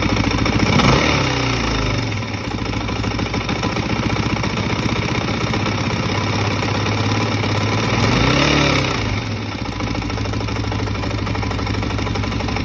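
Suzuki DR-Z400E single-cylinder four-stroke engine, big-bored to 430cc, idling with two quick blips of the throttle, one at the start and one about eight seconds in. It carries a nasty knock whose cause the owner does not know.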